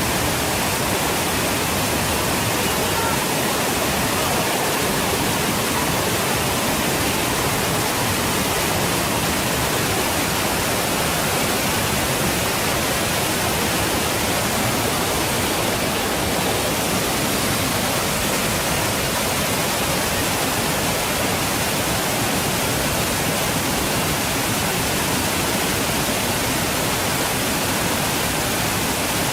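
Waterfall: falling water making a steady, even rush of noise that does not change.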